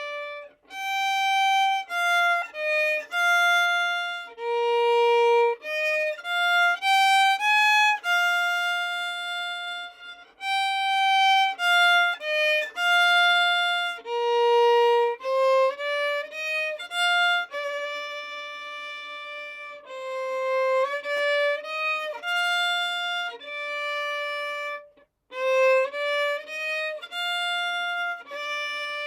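Solo violin playing a slow melody at practice tempo, each note bowed separately with short breaks between notes, some notes held longer than others. There is a brief break about 25 seconds in before the melody resumes.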